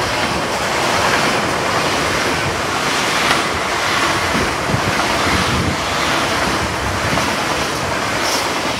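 Hitachi Class 800 express train passing through a station without stopping: a loud, steady rush of wheels on rails and air as the carriages go by.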